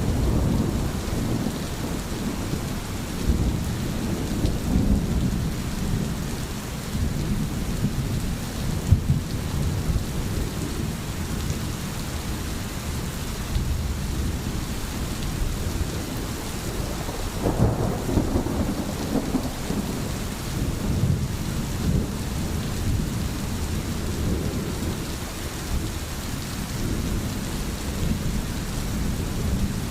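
Steady rain with low rumbles of thunder, swelling near the start and again about two-thirds of the way through.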